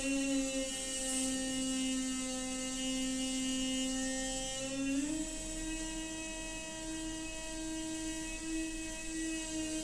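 Noisy water pipe humming: a steady droning tone with a stack of overtones, its pitch stepping up slightly about halfway through and then holding.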